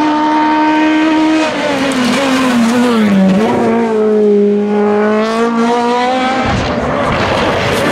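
Hillclimb race car engine at high revs. The revs fall, then hold steady at a lower pitch for several seconds, and about six and a half seconds in the sound turns harsh and noisy as the power comes back on.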